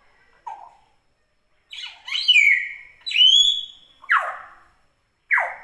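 Common hill myna calling loudly in a string of separate notes. First come clear whistles, one of them rising, then two sharp squawks that drop steeply in pitch near the end.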